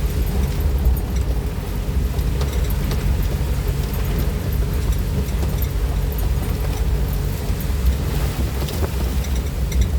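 Strong storm wind buffeting the microphone with a deep, steady rumble, over the hiss of heavy rain.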